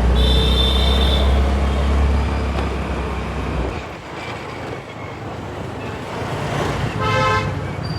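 Road and traffic noise heard from a scooter riding through city streets. A heavy low rumble drops away about four seconds in. Two short pitched tones stand out above the traffic: one near the start and one about seven seconds in.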